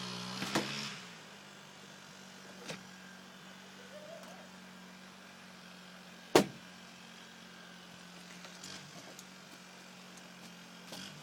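An engine running steadily at idle, a low even hum that drops in level about a second in, with a few sharp knocks, the loudest about six seconds in.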